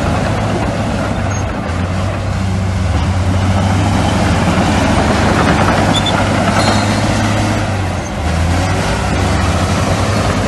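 Heavy diesel engines of bulldozers and dump trucks running steadily, with a deep, even hum.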